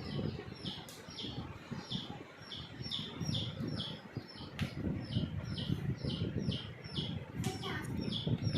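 Alexandrine parakeets calling during a food exchange between birds: a steady series of short, high, downward-slurred chirps, about two a second, over a low rumble.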